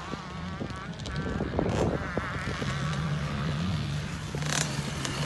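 Small two-stroke motocross bike engine running on the track, its pitch rising and falling as the throttle is worked.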